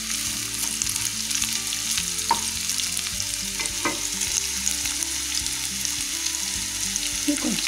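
Boiled elephant foot yam cubes sizzling in oil with ginger-garlic paste, stirred with a flat spatula in a nonstick kadai. There is a steady sizzle, and the spatula knocks sharply against the pan twice, a little after two seconds and again near four seconds.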